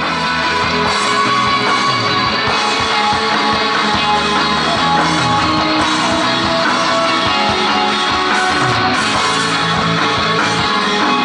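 Post-rock band playing live: loud, dense guitar-led rock music that holds steady throughout.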